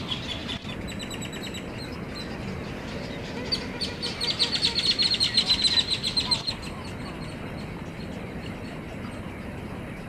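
Bird calls: a few faint high notes, then midway a fast run of high chattering chips, about ten a second, lasting about three seconds, over a steady outdoor background hiss.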